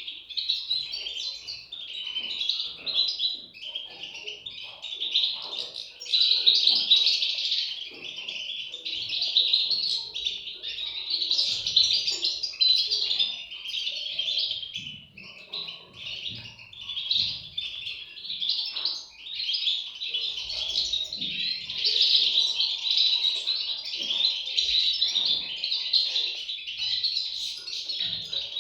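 European goldfinch chicks chirping: a dense, nearly unbroken chorus of high chirps, easing for a moment about halfway through.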